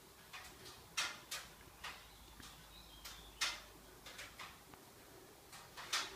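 Subaru Levorg clicking irregularly with its engine switched off, some ten minutes after shutdown: sharp single clicks, three louder ones a couple of seconds apart with fainter ones scattered between.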